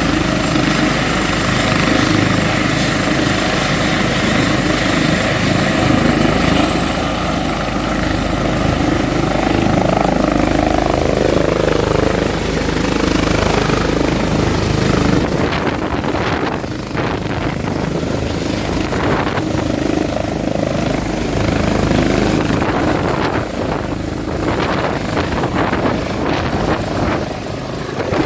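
Trauma helicopter's turbine engine and rotor running loud and close, a steady high turbine whine over the rotor noise. About halfway through, the deep rumble and the highest whine drop away and the sound turns more uneven.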